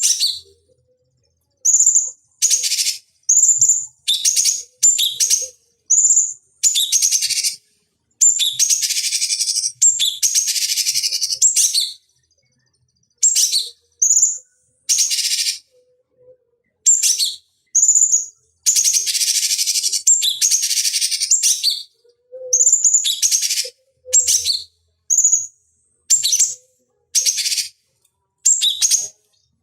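Cucak cungkok singing in separate bursts: short high-pitched notes alternating with longer harsh, chattering phrases that last up to a few seconds, each burst cut off sharply into silence.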